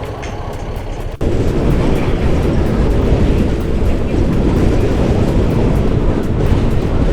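Loud, steady wind and road noise on the microphone of a moving motor scooter. It starts abruptly about a second in, after a quieter, steady vehicle noise.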